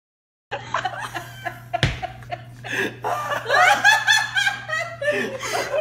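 A person laughing in snickers and chuckles, loudest around the middle, over a steady low hum, with one sharp knock about two seconds in.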